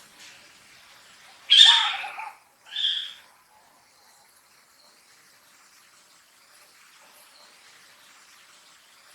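A macaque giving two loud, high-pitched calls about a second apart, the first longer with a wavering pitch, the second shorter.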